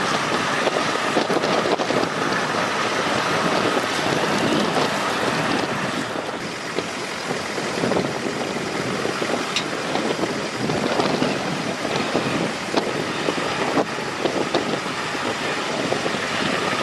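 Steady rushing noise of river water and wind on the microphone, with scattered short knocks and no clear engine note.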